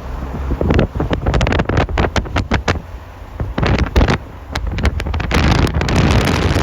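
Strong wind buffeting the microphone: a heavy low rumble broken by many irregular pops, turning to a loud rushing hiss about five seconds in.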